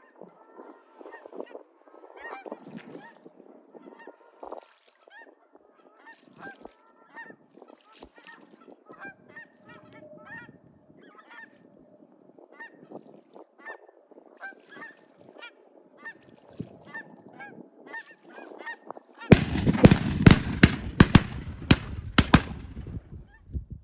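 A flock of geese honking, many short calls overlapping. About 19 seconds in, a much louder, close, rough burst with repeated sharp pops takes over for about four seconds.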